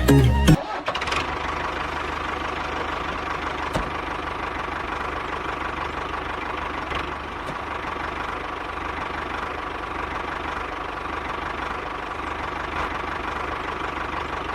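A small motor running steadily, a continuous mechanical whirr with a faint steady tone.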